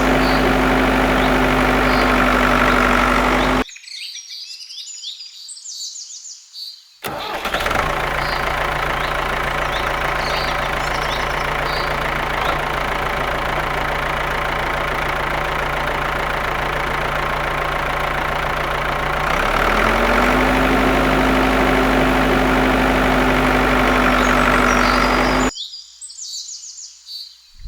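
A homemade mini tractor's small motor running steadily at a constant pitch. It cuts off abruptly about four seconds in, starts again a few seconds later, and cuts off again near the end. Birds chirp in the background, plainly heard while the motor is off.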